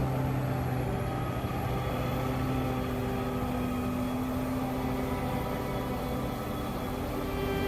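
Rotary snow blower running steadily under load, its engine holding an even drone with a spinning drum churning snow.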